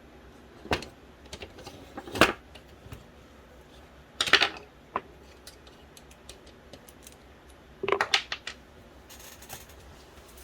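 Clicks and clatters of small plastic and metal parts of an original Xbox Philips DVD drive being handled and pulled apart: a few separate sharp knocks a second or two apart, then a quick run of clicks near the end.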